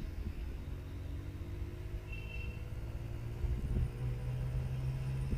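Motorcycle engine running under way, a steady low drone mixed with road rumble, rising a little in pitch and level about three and a half seconds in.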